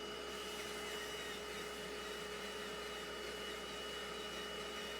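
Bissell Little Green portable upholstery extractor running steadily, a constant motor whine over suction hiss.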